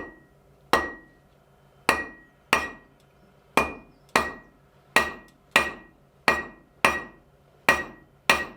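Hand hammer striking metal on a VEVOR anvil while forging, about a dozen blows at a steady pace of a little more than one a second. Each blow has a short metallic ring.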